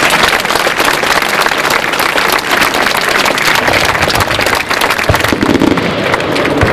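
Fireworks display with a dense, continuous crackling of many small rapid pops.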